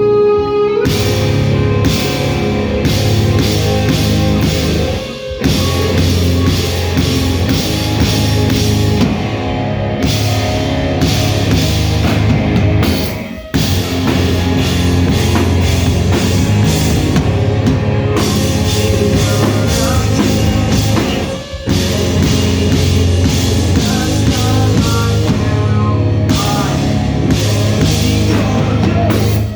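Live rock band playing loud with drum kit and other instruments, breaking off for a moment about five, thirteen and twenty-one seconds in.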